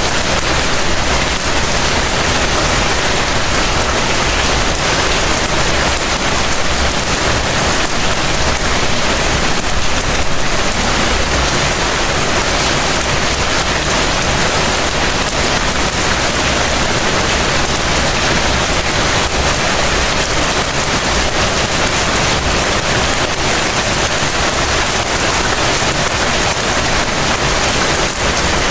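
Heavy rain falling steadily: a dense, even hiss with a low rumble underneath and no let-up.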